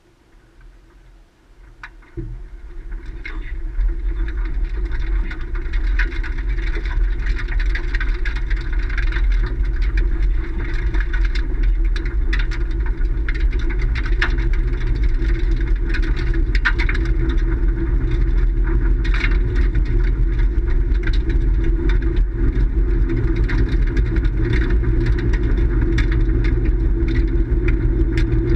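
A vehicle engine starts to be heard about two seconds in, builds up over a couple of seconds, then runs steadily at an even pitch, with scattered light clicks over it.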